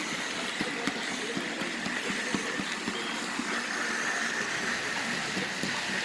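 HO scale Life-Like GP30 model diesel locomotives running on the layout track: a steady whine with scattered light clicks from the wheels over the rail.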